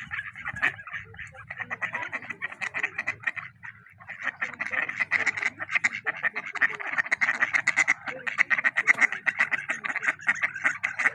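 A chorus of animal calls: many rapid, chattering calls overlapping without a break, with a short lull about four seconds in.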